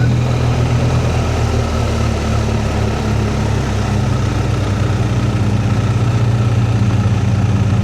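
BMW R1250R's boxer twin engine pulling steadily at low revs in a low gear up a steep climb, with a constant rush of wind and road noise over it.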